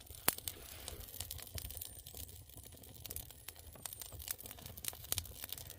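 Wood fire crackling in an agungi fireplace, with irregular sharp pops and snaps over a low rumble, and a few faint high whistles.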